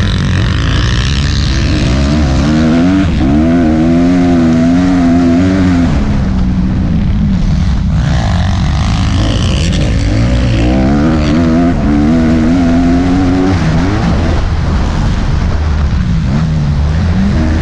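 Motocross bike engine under hard throttle, its pitch climbing and dropping again and again as the rider accelerates, shifts and backs off. A heavy low rumble and hiss run underneath.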